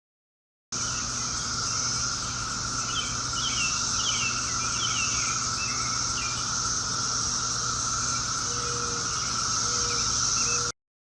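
Chorus of Brood X periodical cicadas (17-year cicadas) buzzing as a steady, unbroken drone. A bird chirps over it a few times about three to six seconds in. The sound cuts in suddenly under a second in and stops abruptly just before the end.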